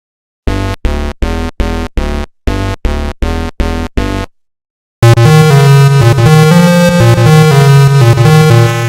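Synthesizer music: eight short, evenly spaced stabs, about three a second, then a pause of under a second and a loud, dense electronic chord held for nearly four seconds.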